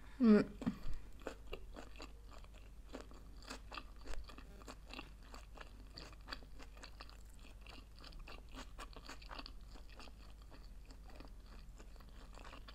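Close-miked chewing of a sushi roll: a steady run of small wet crunches and clicks, after a brief voice sound at the very start.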